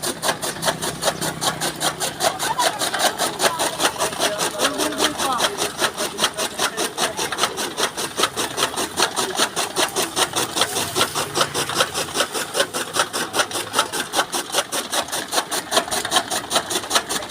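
Chaff cutter (toka machine) running and chopping maize stalks into fodder, with an even clatter of blade strokes about four to five a second.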